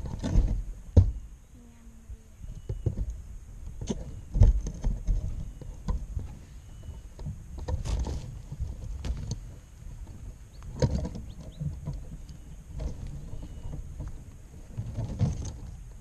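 Irregular bumps, knocks and rustling right at the microphone as a trapped spotted dove shifts and flaps against the camera and the wire of the trap, the loudest knocks about one and four seconds in and again near eleven and fifteen seconds.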